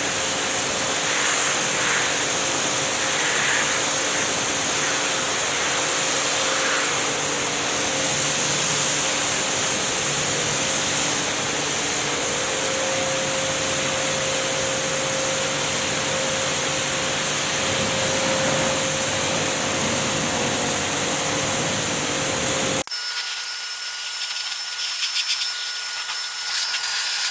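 JPT 2400-watt, 220-bar electric pressure washer running, its motor and pump humming steadily under the hiss of the water jet. The sound cuts off abruptly about 23 seconds in, leaving a much quieter background with a faint steady tone.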